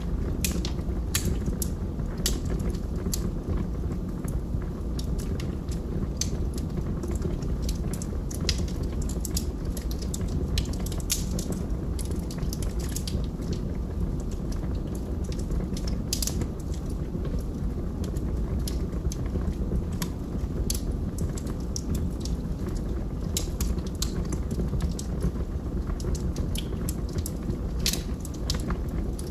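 Wood fire burning in a fireplace: logs crackling with frequent irregular sharp pops over a steady low rumble of flames.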